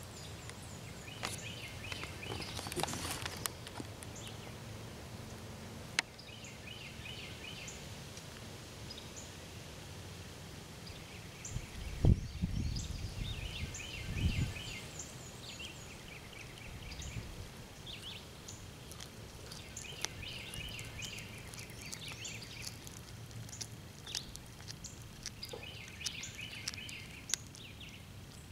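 Birds chirping in short, repeated clusters of high notes, with scattered faint clicks and two low thumps about halfway through.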